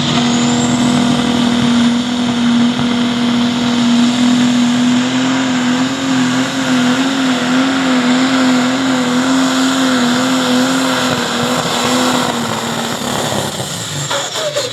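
Pro Stock pulling tractor's turbocharged diesel engine running flat out under load as it drags the sled down the track. Its steady high note wavers slightly, then drops away about thirteen seconds in as the throttle comes off.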